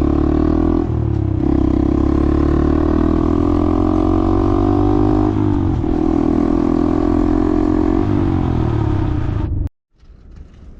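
Vehicle engine pulling under acceleration, its pitch climbing slowly and dropping back at gear changes about one, five and eight seconds in. The engine sound cuts off suddenly near the end, leaving a faint low rumble.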